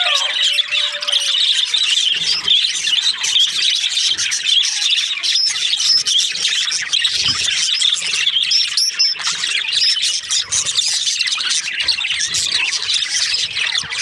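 A group of budgerigars chirping and chattering, a dense, continuous twittering with some squawks. A lower note slides downward in the first two seconds.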